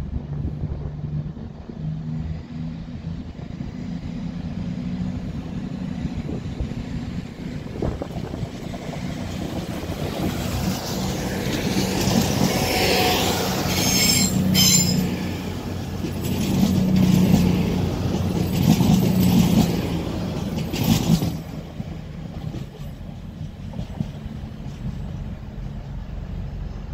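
CrossCountry Voyager diesel multiple unit passing along the platform, its underfloor diesel engines running and growing louder as it goes by. A brief high wheel squeal comes about halfway through, followed by sharp wheel clicks over the rail joints and points.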